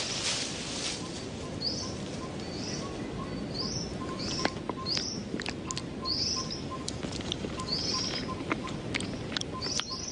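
Birdsong: a bird repeats a short, high chirp roughly once a second over a steady background hiss, with a faint, evenly pulsing lower note and a few sharp clicks.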